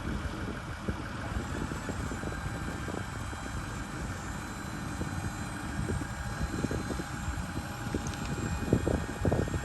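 2008 Ford F-550 dump truck's engine idling steadily, with wind rumbling on the microphone, stronger near the end.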